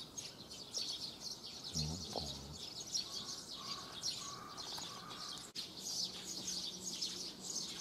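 Small birds chirping, many short high chirps repeating throughout.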